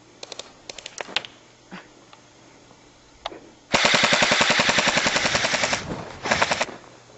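Airsoft rifle firing full-auto: a few scattered sharp clicks at first, then a rapid, even burst lasting about two seconds, followed by a short burst.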